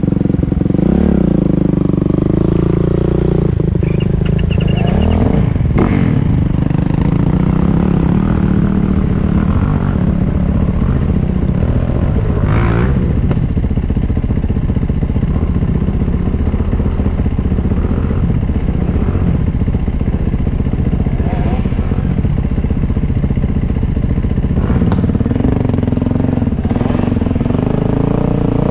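Yamaha YZ450FX dirt bike's single-cylinder four-stroke engine running hard and revving without a break while climbing a slick, muddy hill, with a few sharp knocks.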